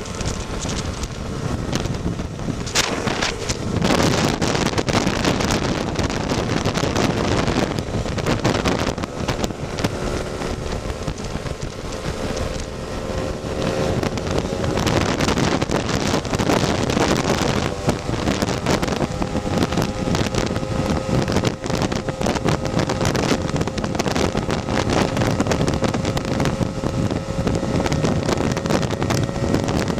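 Tuned Lambretta scooter's two-stroke engine running at road speed, half buried under heavy wind buffeting on the microphone. In the second half the engine note holds steady and rises slowly as it pulls.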